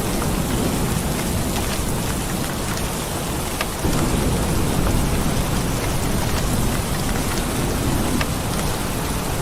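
Steady heavy rain, with a low rumble of thunder beneath it that swells louder about four seconds in.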